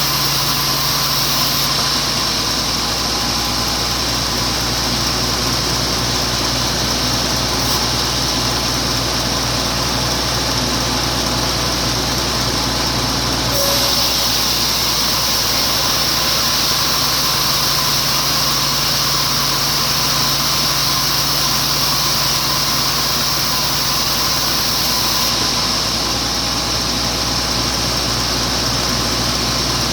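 Sawmill with a log carriage running steadily, its sound shifting slightly about 14 seconds in and again near 25 seconds.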